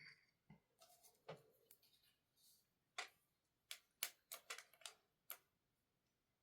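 Faint, irregular clicks and taps from desk work, about a dozen in the first five seconds.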